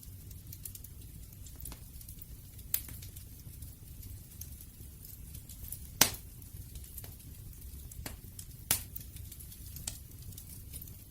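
Wood fire crackling: scattered sharp pops and snaps over a steady low rumble of burning, the loudest pop about six seconds in.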